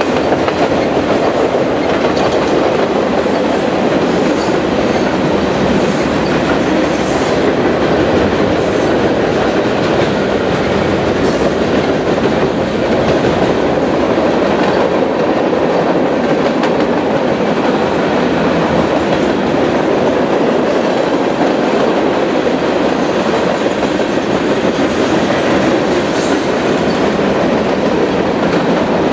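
A train rolling past close by: a steady, loud rumble of wheels on rail, with occasional clicks as the wheels cross rail joints.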